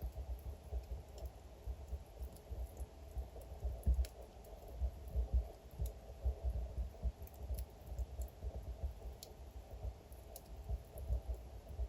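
Wood fire crackling, with frequent soft low pops and scattered sharp snaps over a faint steady burn.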